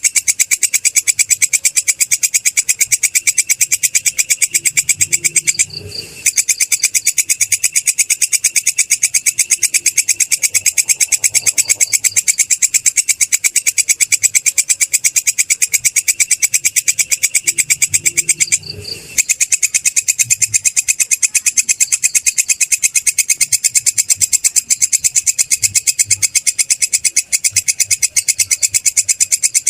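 Belalang kecek grasshopper stridulating: a loud, rapid, unbroken train of high buzzing chirp pulses. It drops out briefly twice, about 6 and 19 seconds in.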